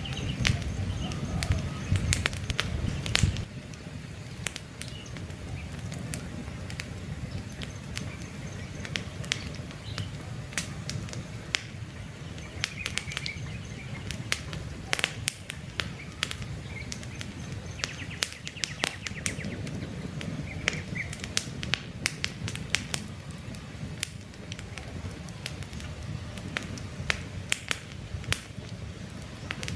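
Wood campfire crackling with frequent sharp pops and snaps over a low rumble that eases about three seconds in, with a few short bird chirps now and then.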